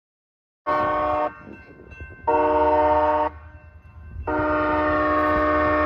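Train locomotive horn sounding three blasts over a low rumble: a short one under a second in, a longer one of about a second, then a long blast that is still sounding at the end.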